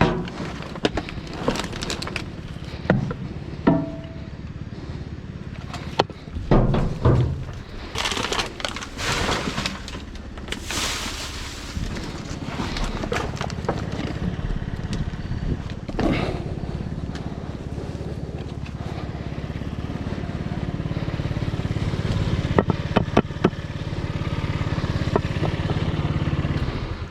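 Clunks, knocks and scrapes of objects being handled and moved, over a steady low rumble that grows louder toward the end.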